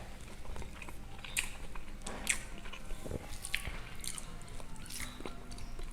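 A person chewing a mouthful of rice and soft catfish curry, with scattered small wet clicks and smacks from the mouth.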